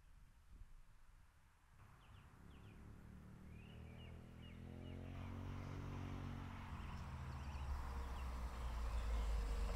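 Birds chirping in short calls over a low vehicle rumble that grows steadily louder.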